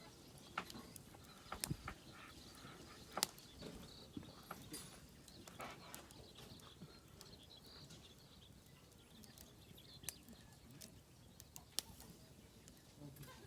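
Faint wood campfire crackling: a quiet background with a few irregular sharp pops and snaps.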